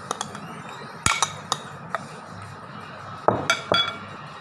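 Dishes and cutlery clinking: a series of sharp clinks in small clusters, some ringing briefly, as the plate and utensils are handled after the meal.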